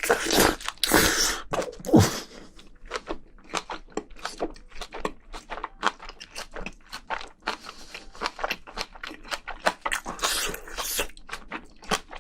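Close-miked chewing of spicy braised seafood and vegetables: a rapid, irregular run of crisp wet crunches, several a second, loudest in the first couple of seconds.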